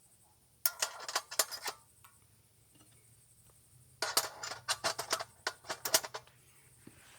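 Utensils and cookware being handled, clinking and knocking. There are two quick runs of sharp clicks: one about a second in and a longer one from about four seconds in.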